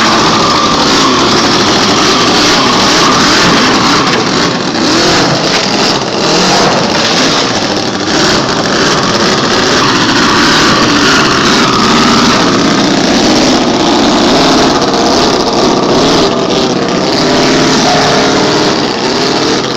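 Miniature hot rod's 45 cc scale-model V8 engine running and revving, its pitch rising and falling again and again.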